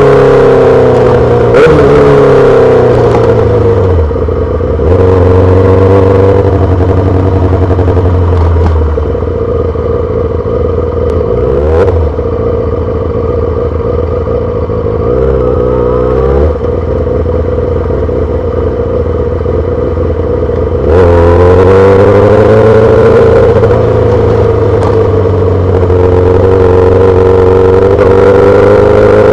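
2008 Yamaha R6 inline-four sport bike through a full SC-Project exhaust, ridden at low city speeds. The engine note falls as the bike slows in the first few seconds, then runs steadier and quieter at low revs through the middle, with a short blip of the throttle partway through. About two-thirds of the way in it gets louder again as the rider accelerates.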